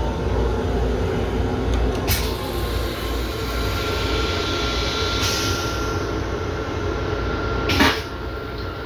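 Steady low rumble inside an M7 electric railcar, with a faint steady whine over it, a small click about two seconds in and a sharp knock near the end.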